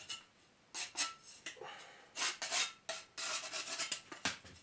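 A small facing brick being scraped clean: irregular rasping strokes, with one sharp knock about four seconds in.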